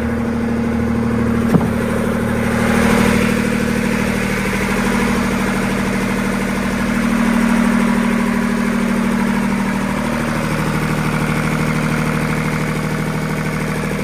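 Boat engine running steadily, its freshly repaired water pump pushing cooling water through, with a sharp click about a second and a half in.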